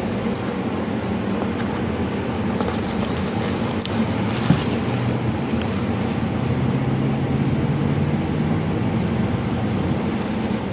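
Steady low mechanical hum over outdoor background noise, its pitch shifting slightly a few seconds in.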